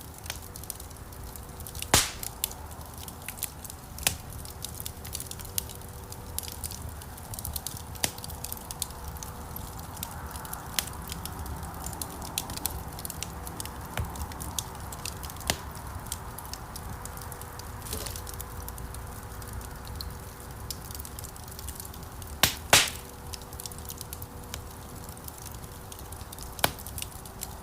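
Wood fire crackling in a fireplace: a steady stream of small sharp pops and snaps over the low rumble of the burning logs, with louder snaps about 2 seconds in and twice around 22–23 seconds.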